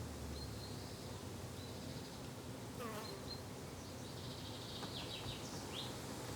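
Summer garden ambience: insects such as bees and flies buzzing steadily, with short, high chirps of small birds now and then.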